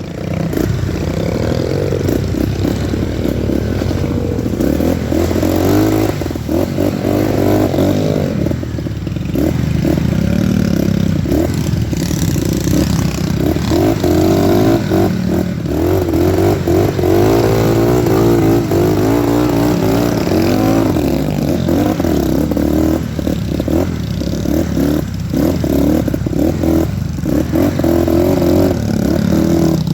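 Dirt bike engine revving up and down as it is ridden on a muddy motocross track, its pitch rising and falling over and over.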